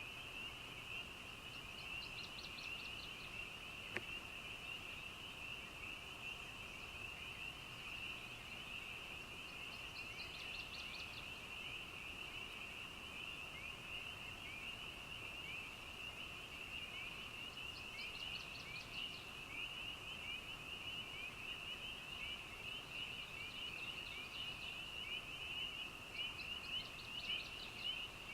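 Night chorus of many frogs calling at once: a dense, steady mass of short, high, rising peeps. A higher, faster pulsed trill of about a second cuts in roughly every eight seconds, and there is one sharp click about four seconds in.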